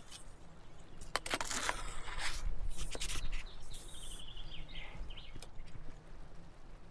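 Loud rustling and knocking handling noises for a couple of seconds, then a bird sings a short trill of about eight notes falling in pitch, over a low steady rumble.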